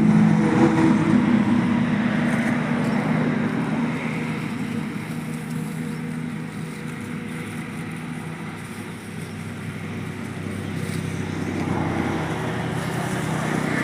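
An engine running steadily. It is louder at first, dies down toward the middle, then grows louder again near the end.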